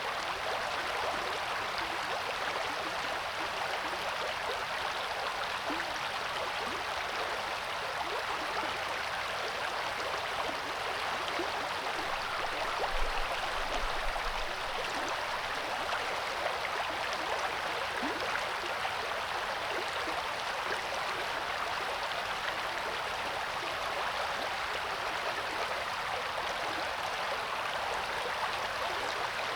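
Coeur d'Alene River water flowing, a steady, even rush with no change in level. A brief low thump comes about halfway through.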